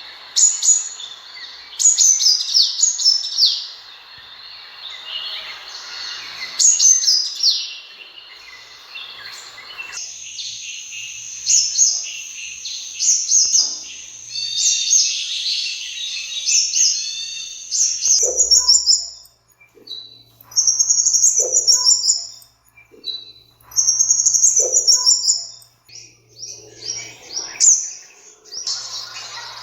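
Sunbird calls: quick series of high, thin chirps and short twittering trills. The recording changes twice, about a third and about two thirds of the way through, the later part coming as separate short bursts with pauses between.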